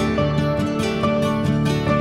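Background music: gentle instrumental with plucked acoustic guitar notes over a steady beat.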